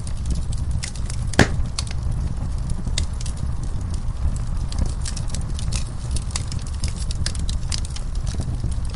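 Wood fire crackling in a fireplace: irregular sharp pops and snaps over a low, steady rumble of the flames, with one louder pop about a second and a half in.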